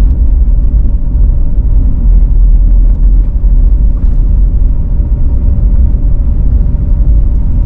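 Steady low rumble of a car driving on snow-covered town streets, heard from inside the cabin: engine and tyre noise with a faint steady hum.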